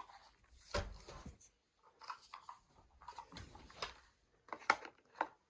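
Scattered handling clicks and knocks of plastic parts, a Dyson V15 Detect cordless stick vacuum having its wand taken off and a tool fitted, with a thump just under a second in; the motor is not running.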